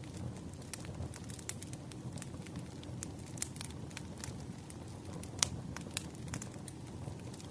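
Campfire burning with a low steady rumble and irregular sharp crackles and pops of burning wood, two louder pops about five and a half and six seconds in.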